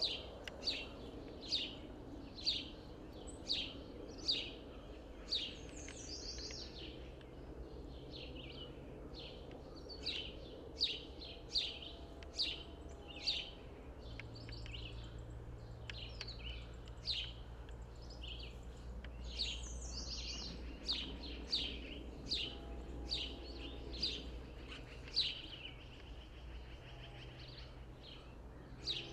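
A bird calling over and over: short, high chirps that slide downward, about two a second, with a few brief pauses.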